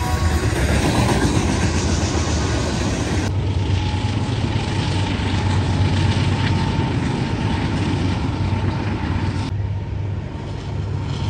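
Freight train rolling past: a steady loud rumble and rattle of covered hopper cars on the rails. The sound changes abruptly about three seconds in and again near the end, each time to a similar steady train rumble.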